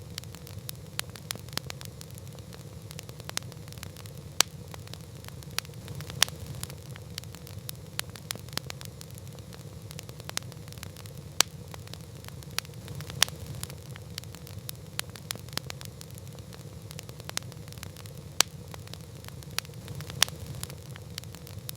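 Wood campfire burning: sharp, irregular crackles and pops, several a second and some much louder than others, over a steady low rumble.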